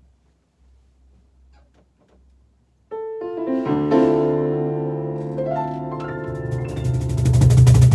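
Piano starting a fast instrumental piece about three seconds in, after a faint low hum, with chords and runs building louder and denser towards the end.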